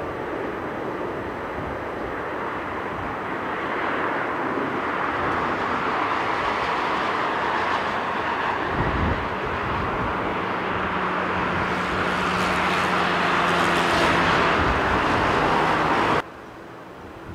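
Jet airliner's engines growing louder as the plane passes close by, a rushing roar with a steady low hum under it, cutting off suddenly near the end.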